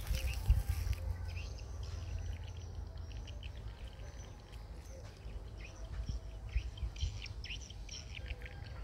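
Small birds chirping on and off over a low, steady rumble.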